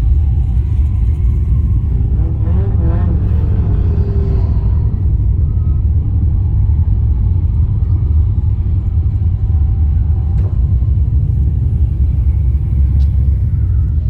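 Holden VX Commodore SS's 5.7-litre LS1 V8, fitted with an aftermarket exhaust, running steadily at low revs with a deep, even rumble heard from inside the car.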